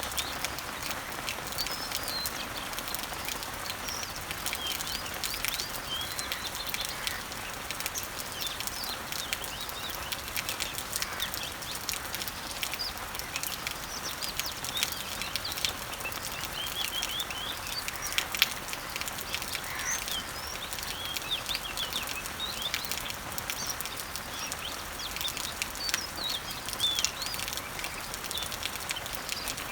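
Steady rain pattering on leaves, with scattered drips, and birds chirping and trilling throughout.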